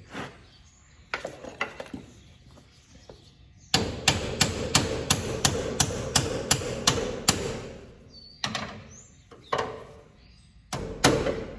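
Repeated hammer blows: a few scattered strikes, then a quick run of about four a second lasting several seconds, a few more single blows, and another run near the end.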